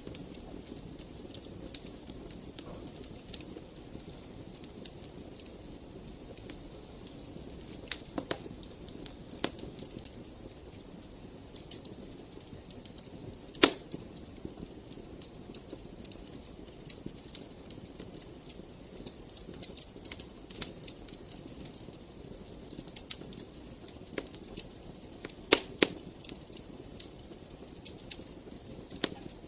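Wood fire in a fireplace crackling: scattered sharp pops and snaps over a steady low rush of the flames, with a loud pop about halfway through and a few more near the end.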